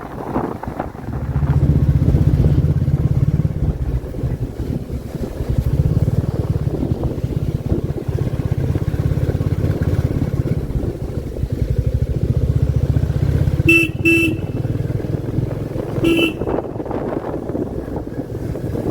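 Royal Enfield Classic 350's single-cylinder engine running under way with a low, steady thump, pulling harder twice as the throttle opens. A horn gives two quick short beeps and then a third shortly after.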